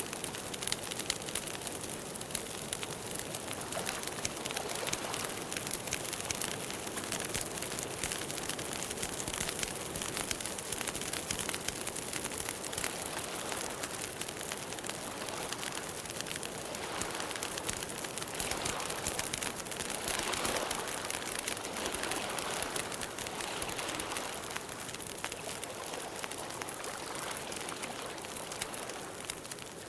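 Campfire burning, with dense irregular crackling over a steady hiss.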